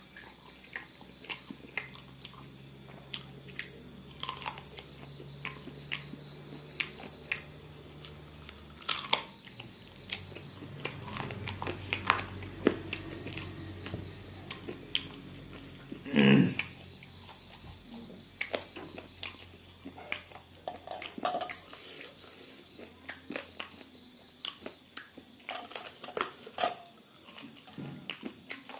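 Close-miked chewing of fried meat eaten by hand, with many small, irregular wet mouth clicks and smacks and one louder thump about sixteen seconds in. At the very end, whisky starts pouring from a bottle into a glass.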